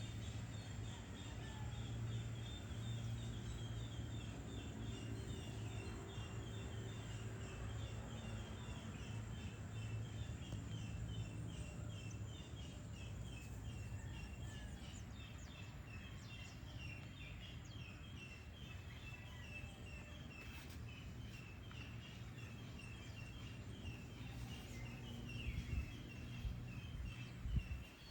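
Dusk outdoor ambience: birds chirping rapidly and continuously over a low steady hum, with a few low bumps near the end.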